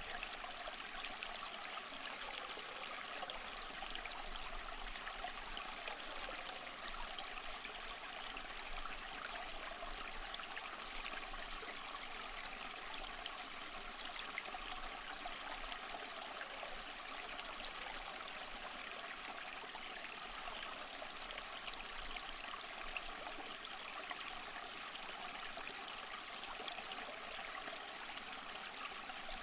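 A stream running steadily over stones, an even, unbroken rush of water.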